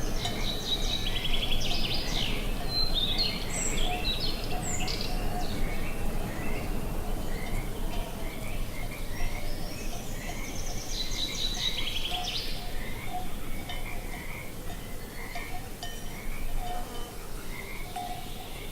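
Open-air nature ambience: a steady low wind rumble under birds singing. Two spells of trilled, chirping song come near the start and in the middle, and short repeated calls keep going throughout.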